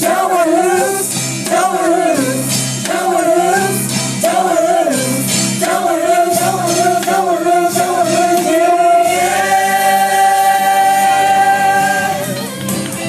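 Singing with band accompaniment in a Motown-style number: wordless wavering vocal runs, then one long held note about nine seconds in that ends shortly before the close.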